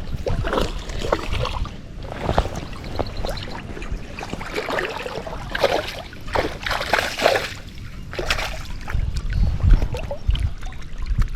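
Water splashing and sloshing in irregular bursts, mixed with sharp knocks and low thumps.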